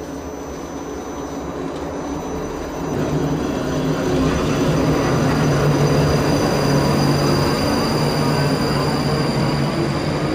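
South Western Railway electric multiple unit pulling away from the platform and gathering speed. Its traction motors whine and its wheels run on the rails, getting louder over the first few seconds, then holding steady, with a rising tone near the end.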